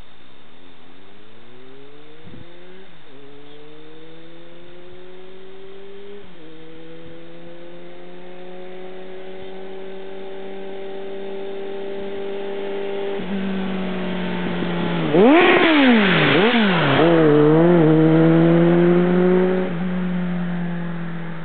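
Kawasaki ZR-7 inline-four through an aftermarket Jardine exhaust, accelerating through several gear changes. About two thirds of the way in it turns loudest, with quick revs up and down, then holds a steady note and fades toward the end.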